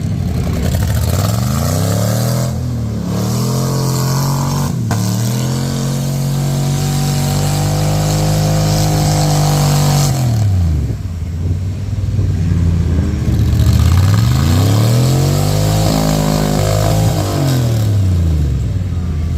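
A mud truck's engine revving up and down repeatedly. The pitch climbs several times, is held high for a few seconds in the middle, drops, climbs again near the end, then settles low.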